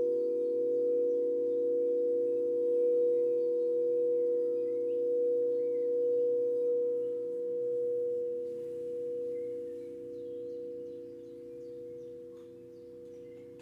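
Tibetan singing bowl ringing with a long sustained hum, its volume wavering slowly as it gradually fades out. Faint bird chirps sound in the background.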